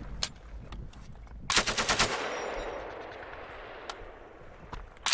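M240 belt-fed machine gun firing one short, controlled burst of about eight rounds about a second and a half in. A few fainter single reports come before and after it, and another burst begins at the very end.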